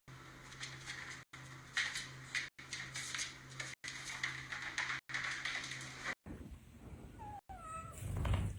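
A cat meowing, with short calls that bend up and down in pitch about seven seconds in. Before that comes a string of short noises over a steady hum.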